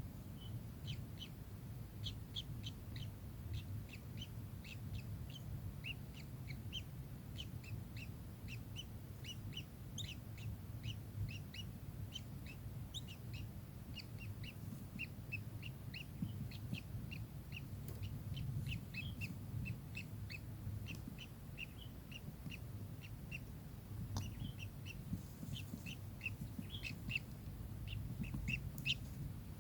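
Kingfisher giving a series of short, sharp calls, a few per second and irregularly spaced, over a steady low rumble.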